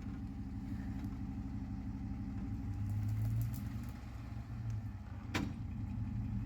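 Ford F-150 pickup's engine running at low revs in four-wheel drive as it pulls a tree, its hum growing stronger about three seconds in as it takes up the load. A single sharp knock near the end.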